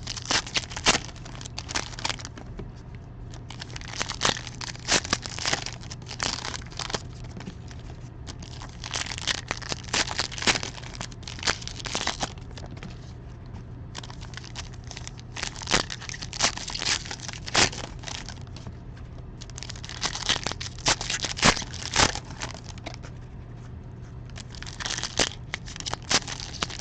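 Foil wrappers of 2020 Donruss Diamond Kings baseball card packs crinkling and tearing as they are opened, in spells of a few seconds with short pauses between.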